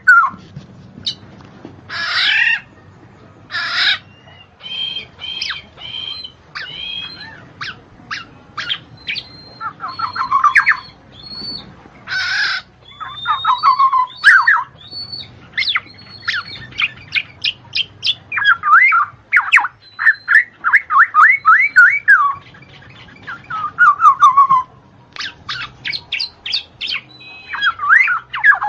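Bird song: a fast, varied run of chirps, short whistled notes and rapid trills, broken by a few harsh rasping calls.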